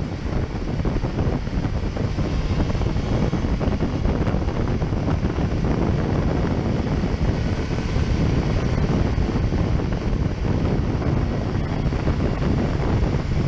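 Wind buffeting the microphone of a camera on a moving motorcycle, a steady low rush with the bike's engine and road noise underneath.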